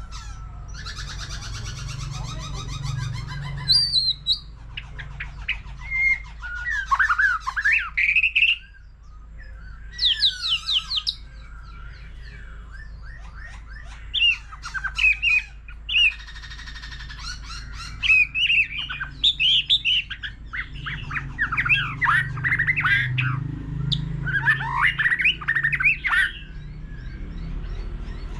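White-rumped shama singing a varied, rapid song of whistled sweeps, harsh chattering notes and fast rattling trills, phrase after phrase with short pauses, over a low steady hum.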